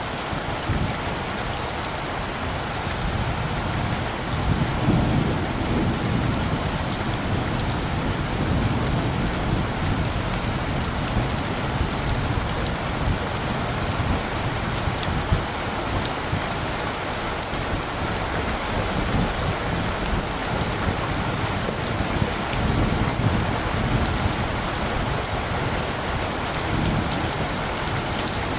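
Steady rain, with low rolls of distant thunder swelling about four seconds in and again near the end.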